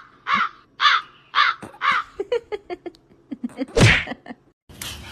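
An animal's short, harsh calls repeated about twice a second, then a run of quicker, shorter chirps and one louder call just before the end.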